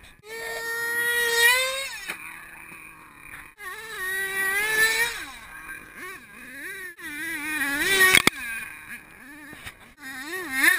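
Small nitro engine of an HPI Savage X 4.6 RC monster truck revving in repeated bursts, its pitch climbing with each throttle blip and falling off between them. A sharp knock sounds about eight seconds in.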